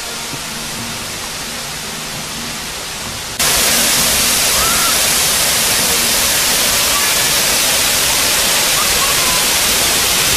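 Roar of a 200-foot waterfall: loud, steady rushing noise that comes in abruptly about three seconds in, after a quieter stretch of softer rushing with faint steady tones.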